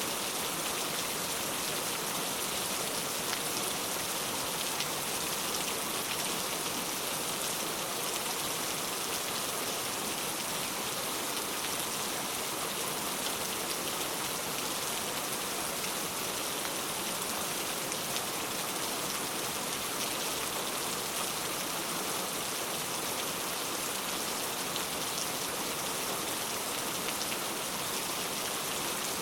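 Steady rain falling, an even hiss with fine pattering of drops.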